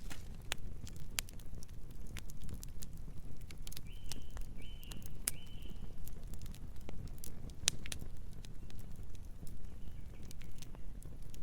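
Campfire crackling: irregular sharp pops and snaps of burning wood over a low, steady rumble of flames. About four seconds in come three short, high chirps, about half a second apart.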